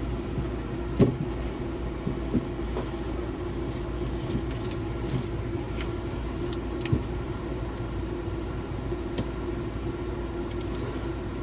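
A steady mechanical drone, with a few light clicks and knocks from fittings and tools being handled, about a second in, a little after two seconds and near the seven-second mark.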